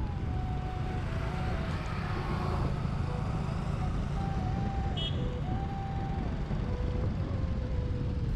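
Steady rumble of wind and motor noise while riding a scooter. A thin tone steps up and down in pitch over it.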